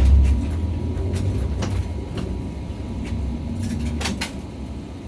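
Nissan Diesel PKG-RA274KAN route bus's diesel engine pulling away from a stop, heard from inside the bus. The engine is loudest as it sets off, then runs on steadily, with a few sharp knocks and rattles from the bodywork.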